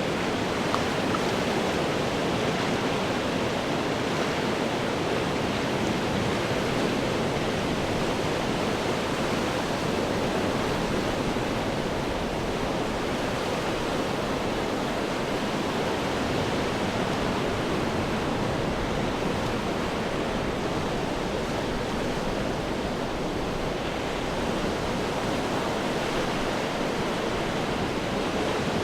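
Ocean waves breaking on rocks: a steady, unbroken wash of surf with hardly any rise and fall in level.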